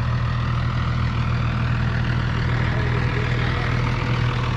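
Heavy truck engine idling, a steady low drone that does not change.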